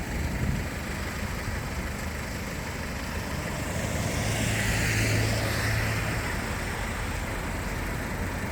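Steady road-vehicle noise, swelling and fading again as a vehicle passes about four to six seconds in.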